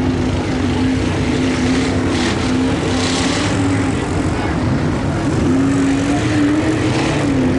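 V8 engine of a Blazer mega truck running hard and steady, its pitch wavering and rising a little near the end, with a rushing hiss swelling briefly about two to three seconds in.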